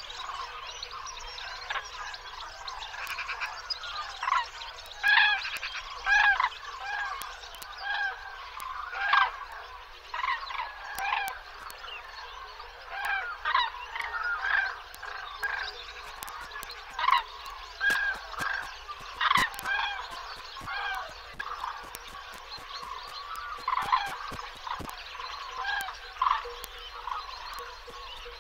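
A flock of birds calling: many short calls one after another and overlapping, a few standing out louder than the rest, with faint clicks among them.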